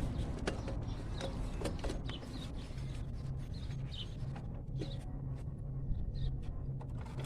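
Scattered small clicks and scrapes of hands prying at the alternator's plastic wiring connector, which is stuck with dry dirt, over a steady low hum.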